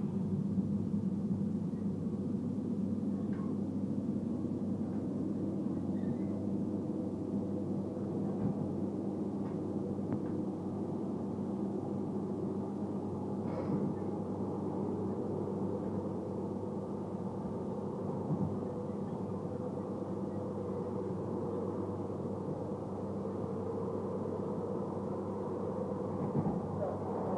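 Steady rumble of a train in motion, heard from inside the passenger car, with a low hum and a few faint clicks.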